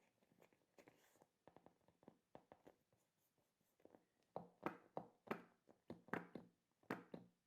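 Quiet hand-mixing of squeeze-ball toys: small taps and clicks at first, then about halfway in a run of louder short squishes, roughly two a second.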